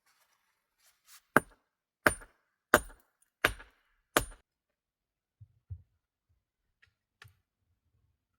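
Five sharp strikes about two-thirds of a second apart, each with a brief metallic ring, followed by a few faint knocks.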